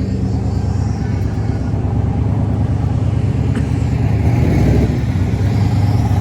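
A car engine running with a steady low note, slowly rolling by.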